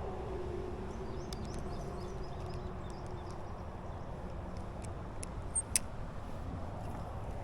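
Outdoor ambience: a steady low rumble with a faint hum that fades away over the first few seconds. A few light clicks follow, the sharpest about six seconds in, and there is one brief high chirp.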